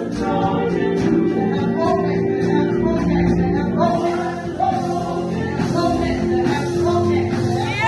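Gospel worship music: singing over held instrumental chords.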